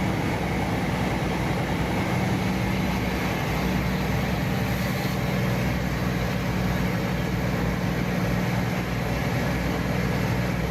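Truck engine running steadily with a low hum and road noise while the truck is being driven.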